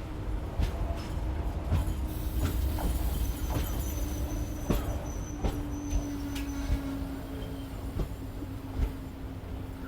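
Koyna Express passenger train running along the track: wheels knocking irregularly over rail joints under a steady low hum. A thin high squeal of the wheels comes in about three seconds in and fades out some three seconds later.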